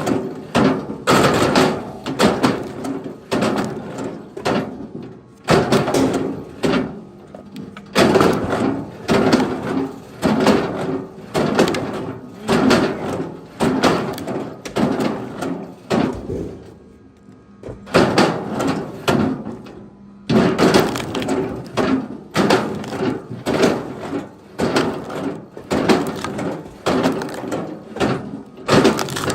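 Split firewood pieces being tossed onto a pile one after another, wood knocking and clattering against wood over and over, with a short pause about halfway through.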